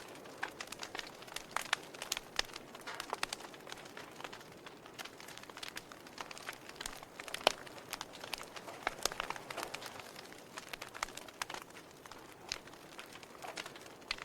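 Wood fire burning in a fireplace: a soft hiss with frequent irregular crackles and pops from the firewood, the loudest pop about seven and a half seconds in.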